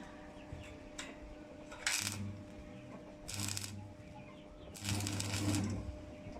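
Stick (arc) welder laying three short welds: each time the arc strikes it crackles and sputters with the welder's hum for about half a second to a second, then breaks off; the third is the longest.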